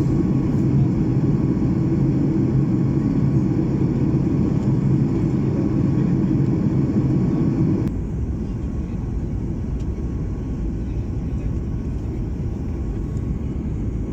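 Steady cabin noise of a Boeing 737 MAX 8 airliner in flight: a constant rumble of the CFM LEAP-1B engines and airflow. About eight seconds in the low rumble suddenly drops and the noise carries on a little quieter.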